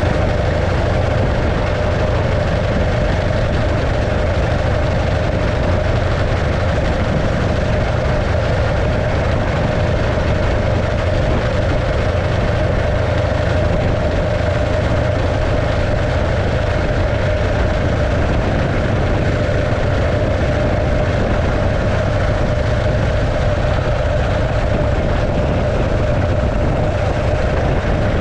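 A 1915 Arcade motorcycle's 650cc JAP V-twin engine running steadily under way, a constant deep engine note that does not change.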